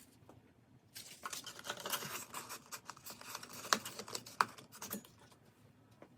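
Workbench handling noise: a run of light, irregular clicks and rattles, with two sharper clicks near the middle.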